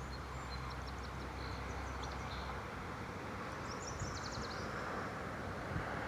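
Steady hiss of distant road traffic, with a low rumble that fades out a few seconds in. Above it, a small bird gives high chirps and a quick trill about four seconds in.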